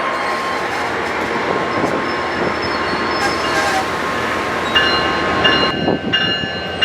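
Amtrak Pacific Surfliner passenger train passing at speed: a loud, steady rush of wheels on rail. About five seconds in, high steady ringing tones come up, and the rush falls away as the train clears.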